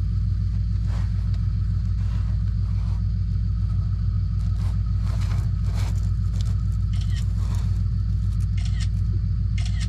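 Ford F250 pickup engine idling steadily with a low rumble, overlaid by scattered light clinks and scrapes of hand tools working on starter bolts.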